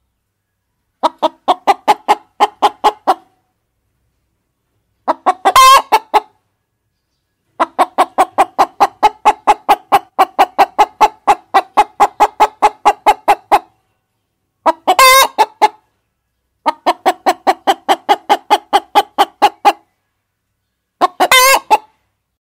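Hens clucking in runs of rapid clucks, about four a second, with three louder, harsher squawks along the way.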